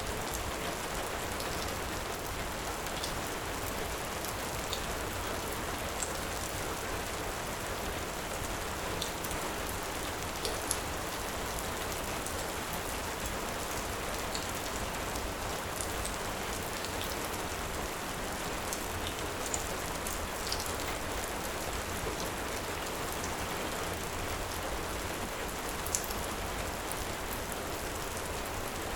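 Steady heavy rain with scattered sharp pops and clicks from a crackling fire mixed in, the sharpest about a third of the way through and near the end.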